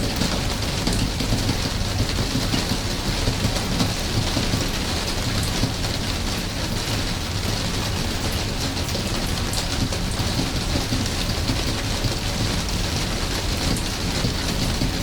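Steady rain: an even hiss with scattered fine drop ticks, over a constant low rumble.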